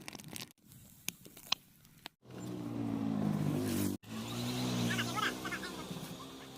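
Engine of a small old motorbike running with a steady hum, briefly cut off partway through and then running on.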